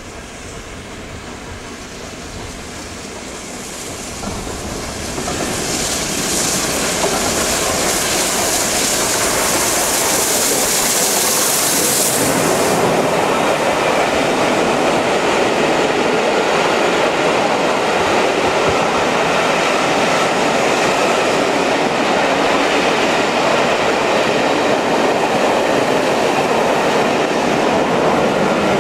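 A Peppercorn A1 4-6-2 steam locomotive and its train approach and pass close by, the sound growing louder over the first few seconds. A high hiss lasts several seconds and cuts off suddenly about twelve seconds in. After that the coaches roll past with a steady rail clatter.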